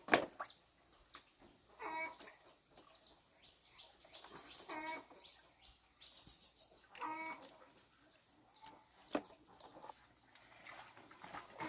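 Chickens clucking, a short call every two to three seconds, with a few high chirps in between. A sharp knock right at the start is the loudest sound, and there is a fainter one later.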